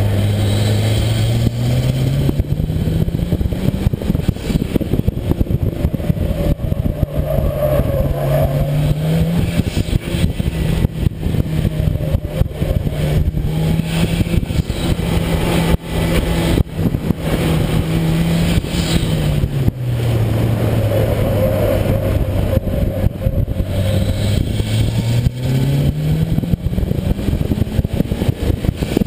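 Mitsubishi Lancer Evolution VIII's turbocharged four-cylinder engine driven hard through an autocross run, its note climbing and falling several times as the driver accelerates and lifts. A constant rush of noise runs under the engine.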